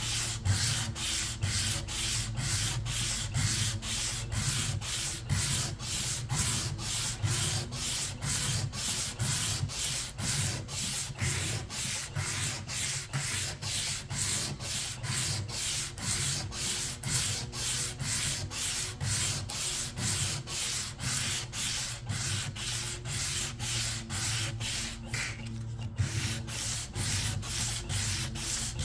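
Hand sanding: sandpaper rubbed back and forth in steady, even strokes, about two a second, stripping old paint and finish. The strokes stop briefly a few seconds before the end, then resume.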